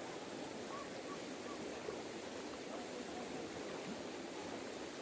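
Steady rush of floodwater flowing, with faint voices in the background.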